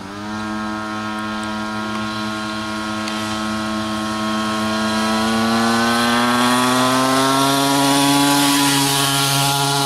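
Small motorcycle engine running as the bike pulls away, its pitch climbing slowly and steadily as it gathers speed, then levelling off near the end.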